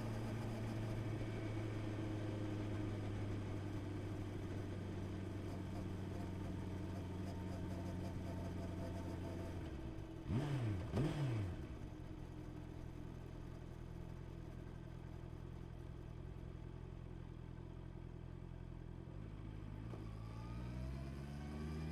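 Honda CB650R's inline-four engine running steadily under way, with two quick revs about ten seconds in. It then settles to a lower, quieter note and rises again in pitch near the end as the bike accelerates.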